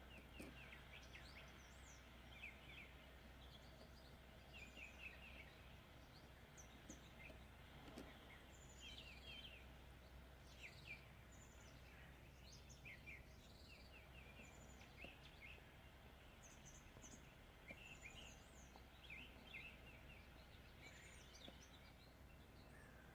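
Near silence, with faint bird chirps coming and going throughout over a low steady hum.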